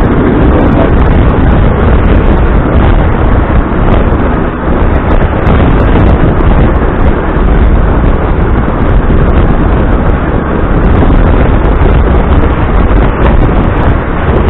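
Wind buffeting the microphone on a moving motor scooter: a loud, steady rush, heaviest in the low end, with the scooter's running and road noise mixed in.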